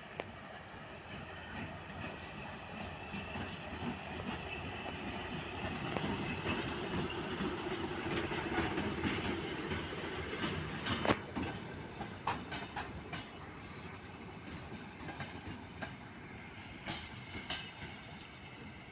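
TEM18DM diesel shunting locomotive and a rail flaw-detection car passing, with the engine running and the wheels clicking over rail joints. It grows louder toward the middle, gives a few sharp clicks about eleven seconds in, then fades as it moves away.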